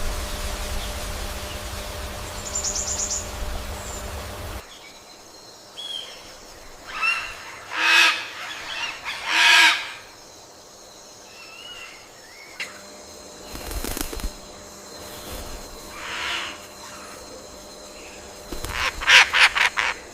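Birds calling: two loud, harsh calls close together, with short whistled notes around them and a quick run of calls near the end. Before that, a low rumbling noise with a brief high trill stops suddenly about four and a half seconds in.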